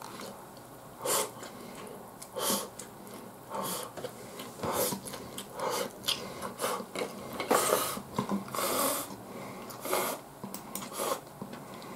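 Close-miked eating sounds: chewing and breathing, in short irregular noisy bursts roughly once a second, a few longer and fuller ones in the second half.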